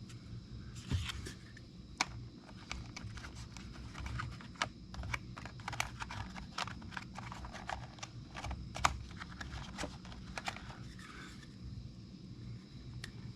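Irregular light clicks and taps of small plastic parts being handled on a workbench, as pieces of heat-shrink tubing are sorted through for a larger size.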